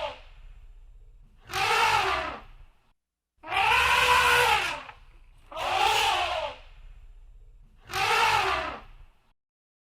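Elephant trumpeting: four calls of about a second each, roughly two seconds apart, each rising and then falling in pitch over a low rumble.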